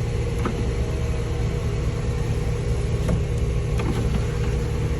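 LS V8 engine in a Jeep Wrangler LJ running at a steady idle, low-pitched and even.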